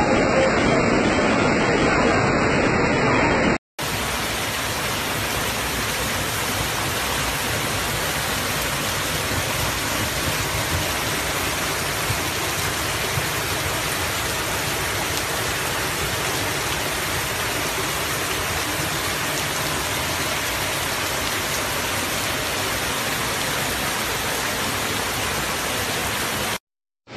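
Steady rushing water noise of heavy rain and floodwater, with a short break about four seconds in, after which it runs on evenly for over twenty seconds.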